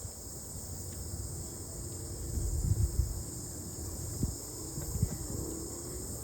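Steady, high-pitched chorus of insects outdoors, with gusts of wind rumbling on the microphone.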